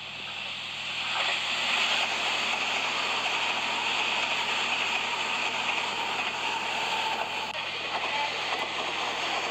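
Express electric train passing close at speed: a steady rush of wheel and rail noise that builds over the first couple of seconds and then holds, with a brief break near the end as another train takes over.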